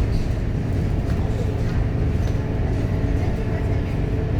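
Scania K230UB city bus's diesel engine and drivetrain running steadily as the bus drives: a constant low rumble with no change in pitch.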